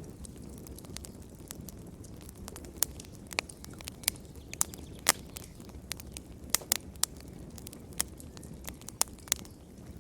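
Wood fire crackling in a fireplace: irregular sharp pops and snaps over the low steady rumble of the flames, the loudest pop about five seconds in.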